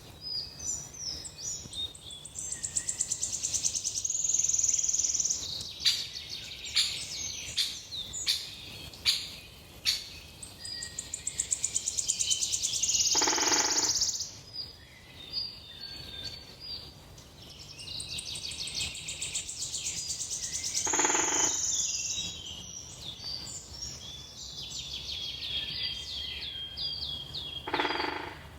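Wild songbirds singing and calling, with fast high trills and quick sharp chirps. Three times, about every seven or eight seconds, a harsher buzzing call sounds for about a second.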